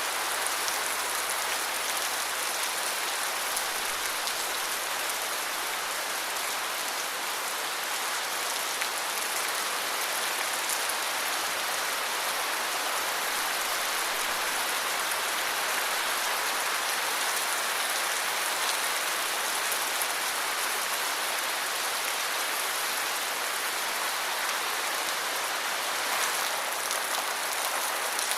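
Steady rain falling, an even patter of drops with no change in strength.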